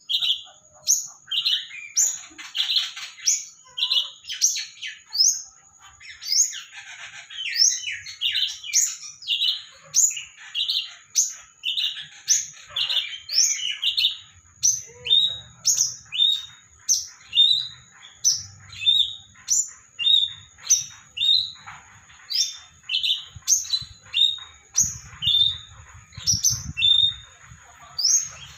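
A bird, the kind known locally as kinoy, singing the same short chirping phrase over and over, about three times every two seconds. Each phrase is a sharp high note dropping quickly, then a lower chirp.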